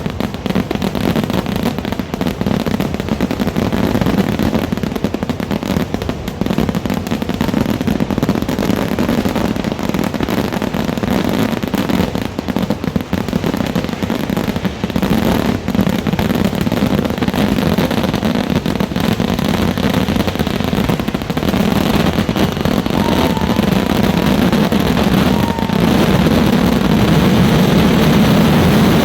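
Kerala temple fireworks (vedikettu): a dense, unbroken barrage of firecracker bursts going off in rapid succession, like machine-gun fire. Near the end the bursts merge into a louder, steadier din.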